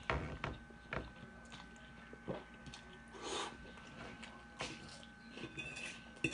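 A person chewing a mouthful of spaghetti with meat sauce. A few short clicks of a metal fork against the plate break in now and then.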